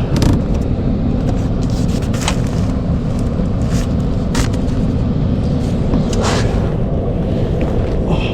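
Steady low rumble with scattered short scrapes and knocks from someone crawling through an attic.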